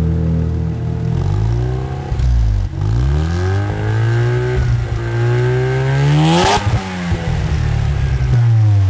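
Mazda RX-7 FC's 13B twin-rotor engine being revved, its pitch swinging down and up between held revs. It climbs to a sharp peak about six and a half seconds in, drops back, and rises again near the end.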